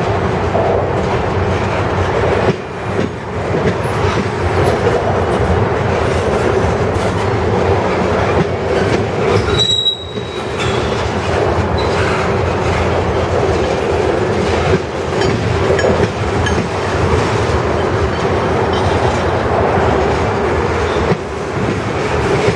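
Freight train cars rolling past, a steady rumble of steel wheels on rail with clatter over the joints. About ten seconds in, a brief high wheel squeal.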